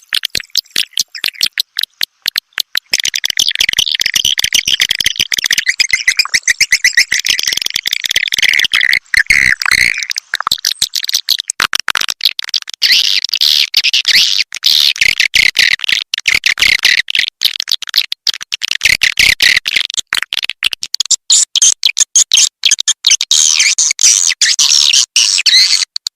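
Swiftlet call recording of the kind played to lure edible-nest swiftlets into a swiftlet house: dense, rapid twittering and chirping of many swiftlets, high-pitched and packed with fast clicks, going on without a break.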